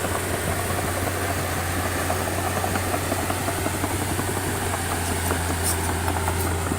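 Diesel engine of heavy earthmoving machinery running at a steady speed, with a constant low tone and a rough rattle over it.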